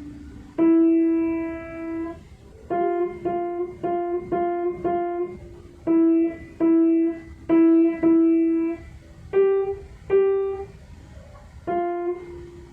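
Piano playing a simple melody one note at a time, in short phrases with brief pauses between them.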